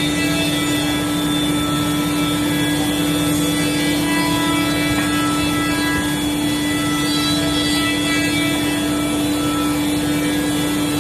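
CNC router spindle running with a steady whine.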